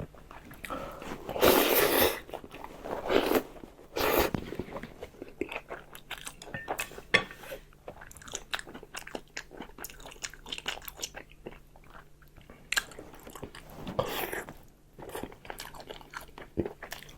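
Close-up sounds of a person eating: irregular chewing and small mouth clicks, with a few louder bites about a second and a half in, near four seconds, and again about fourteen seconds in.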